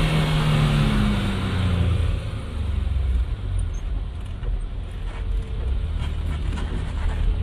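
Hawk Stratos replica's engine heard from inside the cabin while driving: its revs fall over the first couple of seconds, then it settles into a steady low drone with a steady hiss above it.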